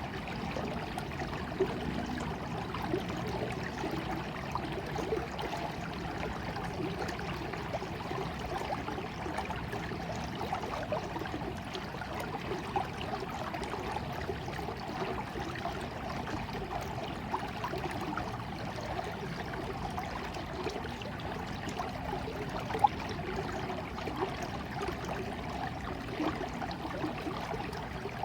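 Water flowing and trickling steadily, as in a small stream, with occasional sharper ticks in the flow, the loudest about 23 seconds in.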